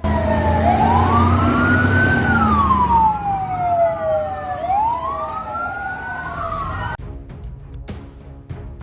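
Several emergency sirens wailing out of step, their pitch rising and falling, over a low rumble. About seven seconds in, the sound cuts abruptly to music with a steady beat.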